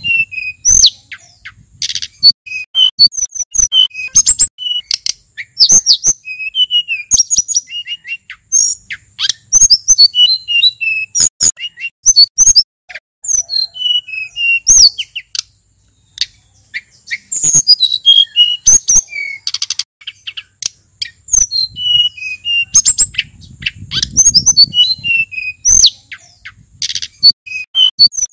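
Male sulingan gunung (a small Javanese mountain flycatcher) singing a varied song of high, quick whistles, chirps and sharp notes in fast phrases separated by short pauses.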